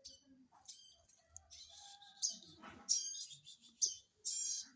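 Baby prenjak nestlings chirping in quick runs of high, thin calls, the begging calls of chicks being hand-fed.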